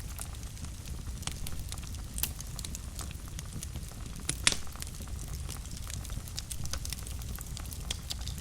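Wood fire burning in a fireplace, a low steady rumble with scattered crackles and pops, the loudest pop about four and a half seconds in.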